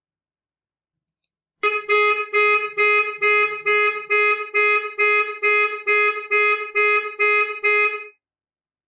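Pickup truck's car alarm sounding, its horn giving a rapid run of identical high-pitched honks, about two to three a second, that starts about a second and a half in and stops abruptly near the end.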